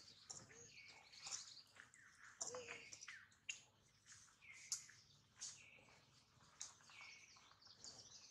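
Faint bird calls repeated about once a second, each a short falling note that levels off into a steady high tone, with a few soft clicks and rustles between them.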